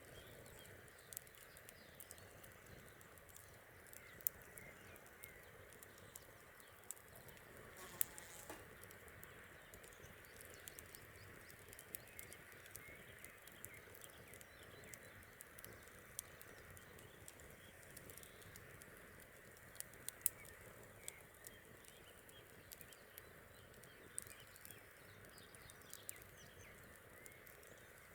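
Wood fire crackling: irregular sharp pops and ticks, a few louder snaps among them, over a faint steady hiss.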